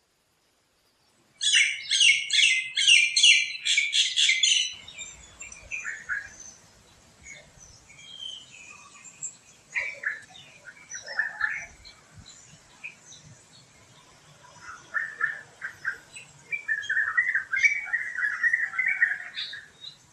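Birds chirping and calling in a forest. After about a second of silence comes a loud run of rapid, repeated chirps. It switches abruptly to softer scattered calls over faint background ambience, and another quick chattering run of chirps comes near the end.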